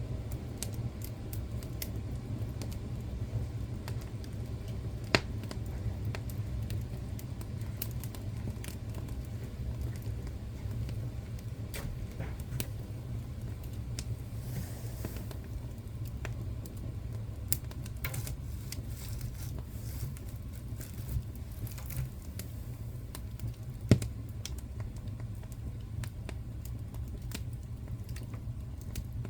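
Wood fire burning in a fireplace: a steady low rumble of the flames with scattered crackles, and two sharper pops, one about five seconds in and a louder one about two-thirds of the way through.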